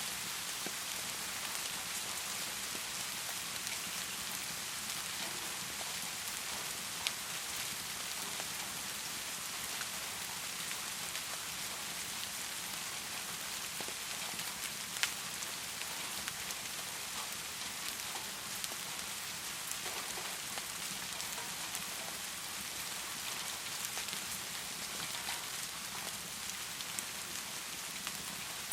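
Heavy rain pouring steadily, with a few sharp pops now and then, the loudest about halfway through.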